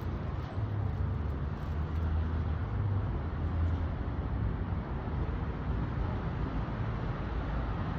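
Steady low rumble of outdoor background noise, like street traffic, with no distinct events.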